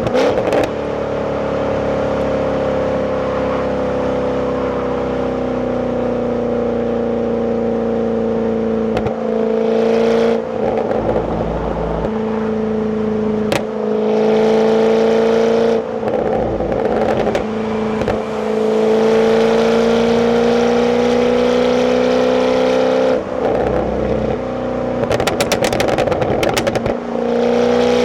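Jaguar F-Type's supercharged 5.0 V8, stock exhaust, running at steady cruising revs, heard from the passenger seat. Several times the steady note breaks into rougher stretches, as at a gear change or a lift off the throttle, and a run of crackles comes near the end.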